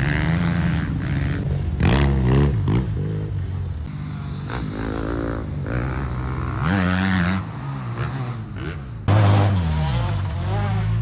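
Yamaha XTZ 750 Super Ténéré's parallel-twin engine revving up and down while ridden, its pitch climbing and falling again and again through the gears, with sharp throttle openings about two seconds in and again about nine seconds in.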